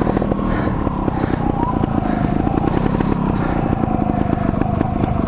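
Two-stroke trials motorcycle engine running steadily, each firing pulse distinctly heard as a continuous putter.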